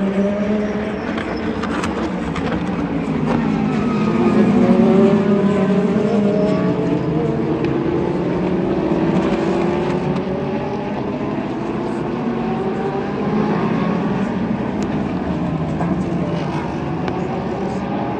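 Several sports-prototype and GT race car engines running at speed past the track, overlapping, their pitches rising and falling as they go by; loudest about five seconds in.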